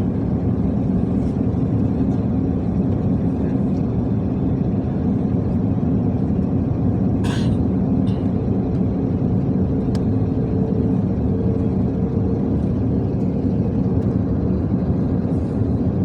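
Steady low rumble of airliner cabin noise during the descent to landing, with a brief hiss about seven seconds in and a faint click near ten seconds.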